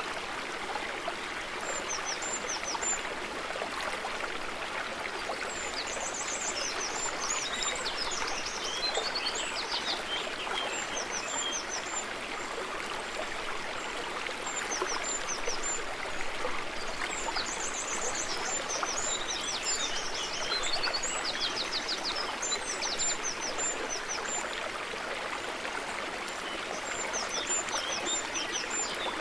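A stream running steadily over rocks, with small songbirds singing bursts of quick, high chirps and trills every few seconds.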